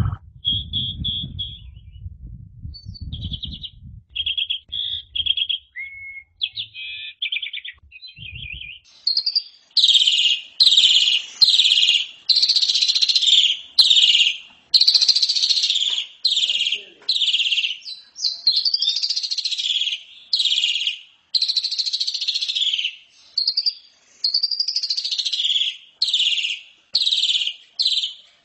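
Asian pied starling (jalak suren) singing: a few short rattling trills at first, then from about ten seconds in a long run of loud, rasping notes, a little more than one a second.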